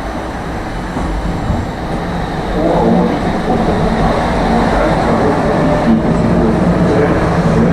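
Tram running on its rails: a steady rumble of wheels and motor with a low hum, getting louder about two and a half seconds in.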